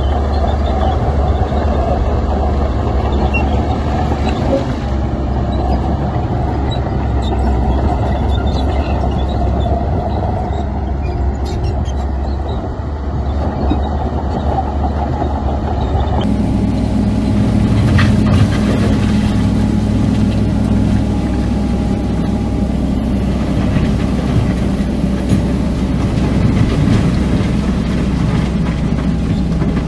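Heavy diesel earthmoving machinery running steadily: bulldozer and dump truck engines at work. The sound changes abruptly about halfway through, and a sharp clank comes a couple of seconds later.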